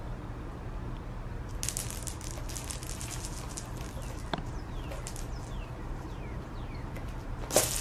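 A cat's claws raking the sisal rope of a scratching post: a quick run of scratchy rasps lasting a couple of seconds, then a single sharp tap near the end.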